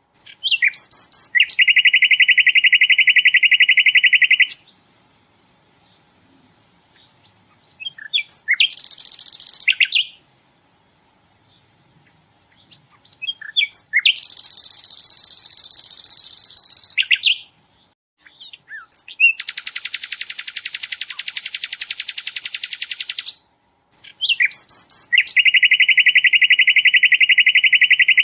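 Sikatan londo flycatcher singing in long, rapid machine-gun trills of about two to four seconds each. The trills jump between a lower and a much higher pitch, with short sharp chirps in the gaps between them. Five trills in all.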